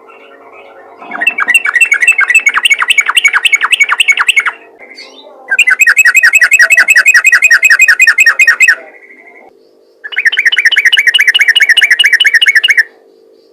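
Yellow-vented bulbul (trucukan) giving its rapid chattering 'ropel' call: three bursts of fast, evenly repeated notes, each about three seconds long, with short pauses between. A steady faint hum runs underneath.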